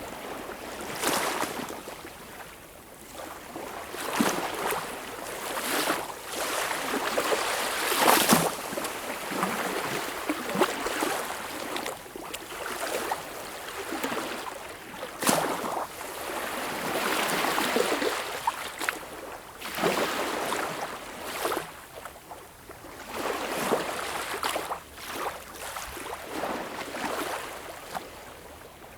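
Sea water washing and splashing in uneven surges one to three seconds apart, with little deep rumble.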